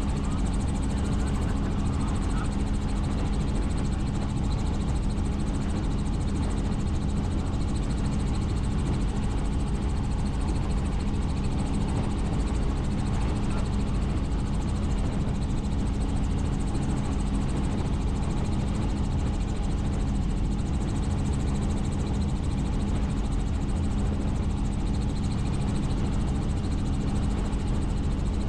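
Helicopter in steady flight: even rotor and engine noise with a constant low hum.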